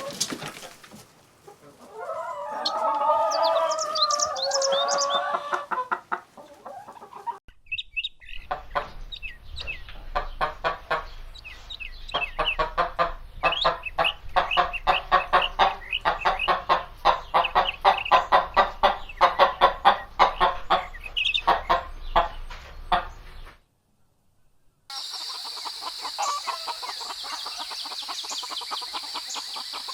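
Chickens clucking in several short clips separated by brief silent cuts. A rooster crows once near the start. Through the middle a flock clucks rapidly over a low rumble, and near the end the clucking continues over a steady high-pitched tone.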